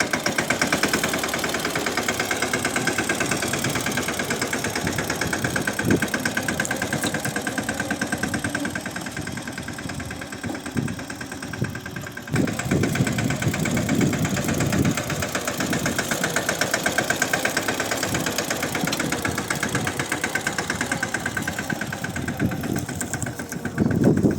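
Swaraj 717 tractor's single-cylinder diesel engine running with a fast, even chugging beat. About halfway through it becomes deeper and rougher.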